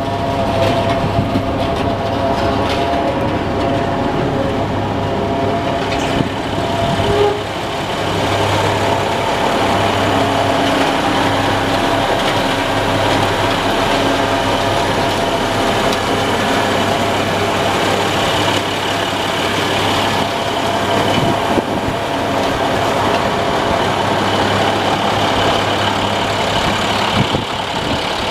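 Diesel engine of a 2013 International 4400 plow truck running steadily, with several held tones over a constant mechanical noise and a brief dip in level about seven seconds in.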